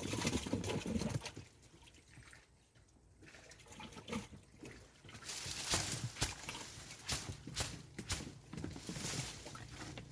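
Water splashing and sloshing in irregular bursts, a cluster in the first second and a busier run of splashes from about five seconds in.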